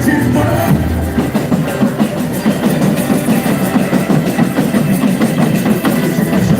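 Live boi-bumbá music driven by loud drums and percussion playing a dense, steady beat.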